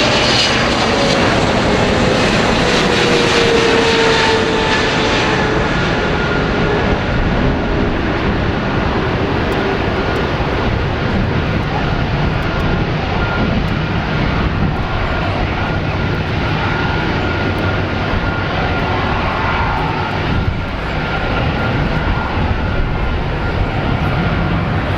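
Boeing 777-300ER's GE90-115B jet engines, loud and steady as the airliner passes low on landing, with a whine that falls in pitch over the first few seconds and a thin steady whistle after.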